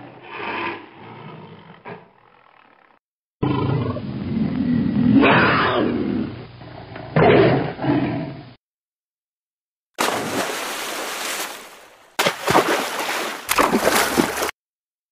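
Tiger roaring and growling in a couple of separate clips, the longer one about five seconds. About ten seconds in comes the noisy splash and churn of an elephant wading through water, broken by short gaps.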